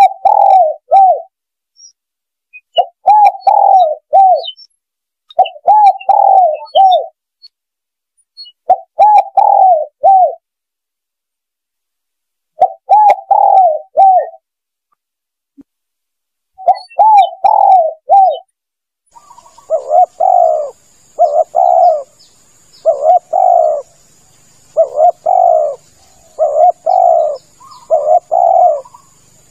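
Spotted dove (tekukur) cooing: short phrases of several coos repeated every few seconds. About two-thirds of the way in, the coos come faster and closer together over a faint steady hiss.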